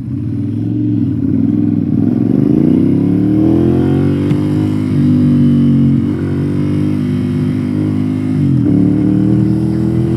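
Ducati Monster's L-twin engine through a Termignoni exhaust, pulling away and accelerating. The pitch climbs over the first few seconds and then holds. Near the end it drops sharply at a gear change and climbs again.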